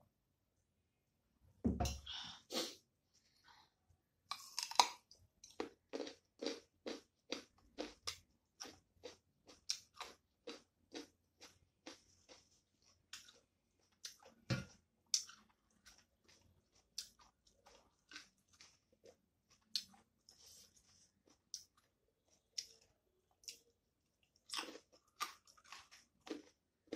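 Close-miked mouth sounds of a person chewing a mouthful of rice and fish curry, with wet smacks and clicks about two to three a second. A low thump comes about two seconds in.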